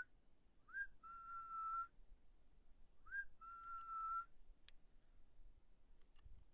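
A hunter whistling twice to rouse a wolf, each whistle a short rising chirp followed by a steady held note. A faint click follows.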